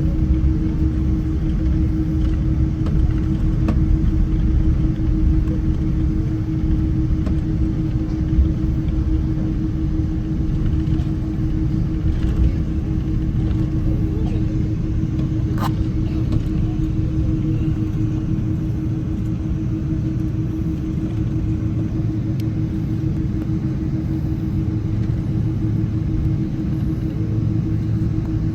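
Boeing 777 cabin noise: a steady low rumble with a constant engine hum running underneath, and one sharp click about halfway through.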